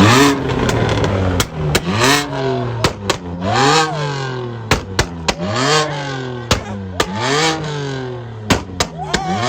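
A car engine being revved again and again: about six quick blips, each rising sharply and falling back, with sharp pops in between as the revs drop.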